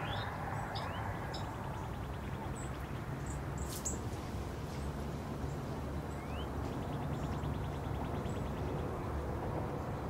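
Faint small-bird chirps over a steady low background rumble: a few short rising chirps, and twice a rapid ticking trill lasting about a second and a half. There is a cluster of sharp clicks about halfway through.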